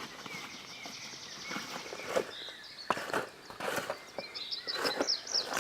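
Footsteps rustling and crunching on the ground, several steps about every 0.7 s, while a small bird chirps. The bird gives a quick run of high chirps near the end.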